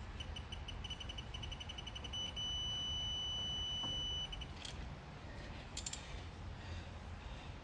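Digital torque wrench adapter beeping faster and faster as a lower intake manifold bolt is tightened, then giving a steady tone for about two seconds as it reaches the set torque. A few sharp metallic clicks follow.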